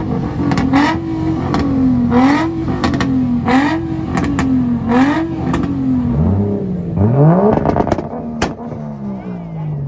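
Infiniti car engine revved hard on a two-step launch-control limiter. The revs climb, then bounce up and down over and over, with sharp exhaust pops and bangs. It blips twice more and falls back toward idle near the end.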